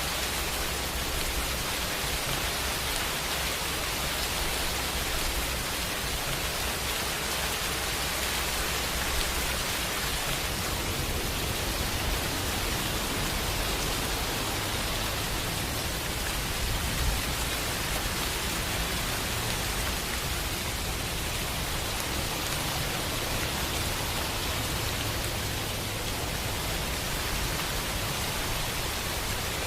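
Steady, even rainfall, a dense hiss of drops with no breaks. A low rumble runs underneath and grows stronger about ten seconds in.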